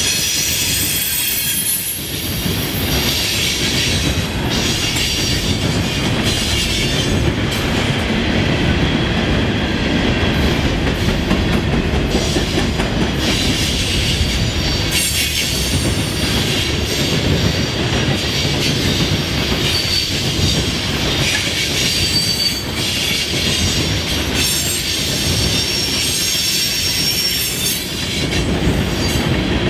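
Freight cars (tank cars and covered hoppers) rolling steadily over a rail diamond crossing, wheels clacking over the crossing with a continuous rumble and high wheel squeal that comes and goes.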